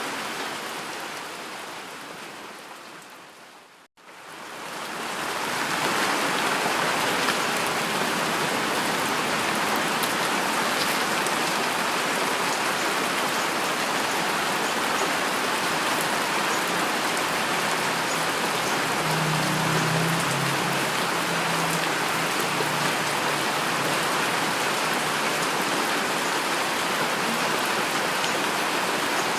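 Steady heavy rain falling on a surface. It fades down to silence about four seconds in, then fades back up over the next two seconds.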